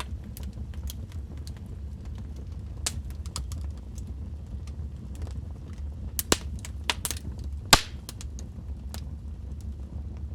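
Burning wood logs in a fireplace crackling: irregular sharp pops and snaps over a steady low rumble of the fire, with two louder pops a little past the middle.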